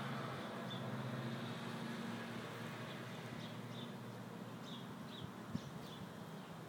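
Small birds chirping outdoors: short high chirps repeating irregularly, a few each second at times, over a low steady hum that fades away in the first couple of seconds.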